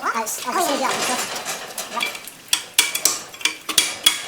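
Metal objects clinking and knocking together, several sharp clinks in quick succession in the second half, with a voice briefly at the start.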